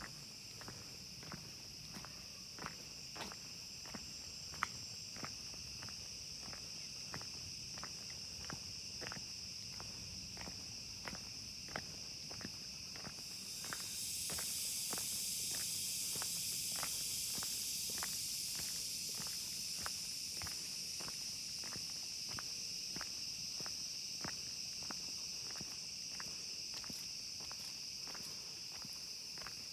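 Rainforest insect chorus: a steady high-pitched drone, joined about halfway through by a louder, wider buzzing swell that slowly fades. A sharp ticking about two a second runs underneath.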